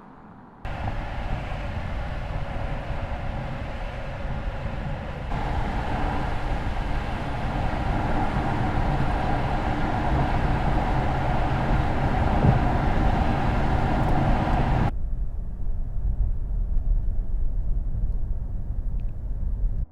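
Mercedes S-Class plug-in hybrid driving, a steady rush of road and running noise with a faint hum. It changes abruptly between shots about half a second in, about five seconds in and about fifteen seconds in, where it turns duller and quieter, and cuts off at the end.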